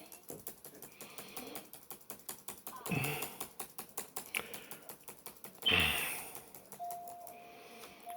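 Rapid, evenly spaced clicking from a computer being worked while web pages are read, broken twice by a louder short sound. A faint steady tone starts near the end.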